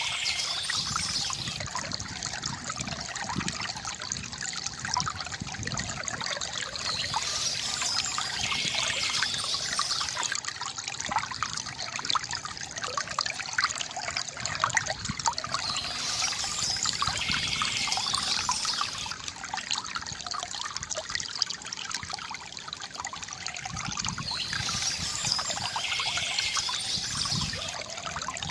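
Water from a bamboo fountain trickling and splashing steadily, with bursts of bird chirping that come back about every eight seconds.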